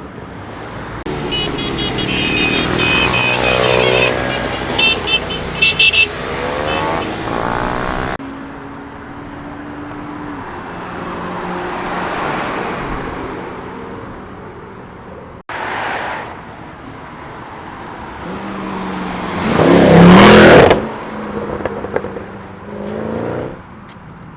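A run of cars accelerating hard and passing one after another, their engines revving up and falling away as each goes by. A few sharp cracks from an exhaust come about five seconds in, and the loudest pass comes near the end.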